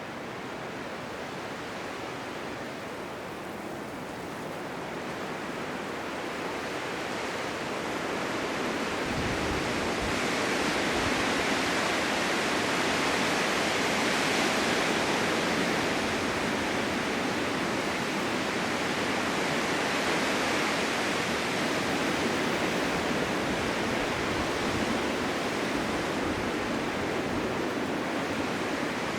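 Blizzard wind: a steady rushing hiss that gradually grows louder over the first ten seconds or so, then eases slightly.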